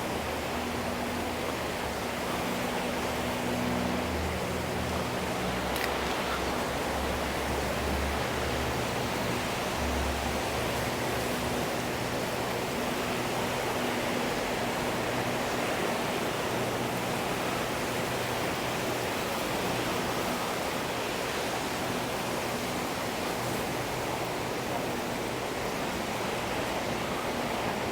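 Steady, even rush of sea surf breaking on the beach.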